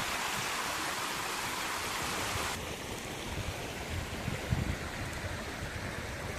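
Steady rushing of flowing stream water. The sound shifts to a duller tone about two and a half seconds in.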